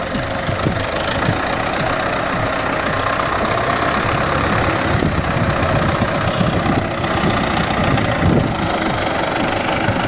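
Diesel tractor engine running steadily at idle.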